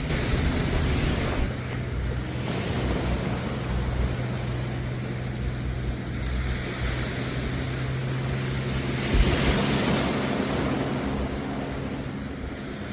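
Sea waves washing onto the beach in repeated surges, with wind buffeting the microphone. A steady low hum runs underneath.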